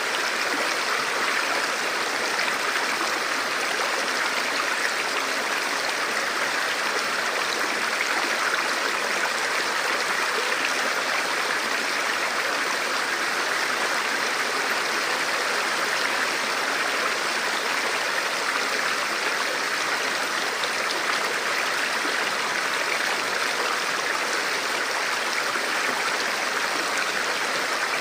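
Forest river flowing over rocks: a steady rushing and babbling of water that stays even throughout.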